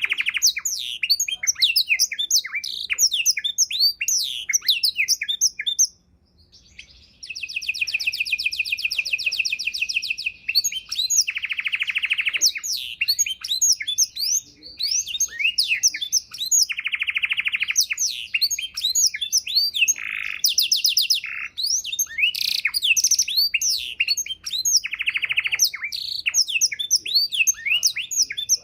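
Domestic canary singing a long, varied song of rapid chirps and whistled notes, broken by several fast buzzing trills, with a short pause about six seconds in.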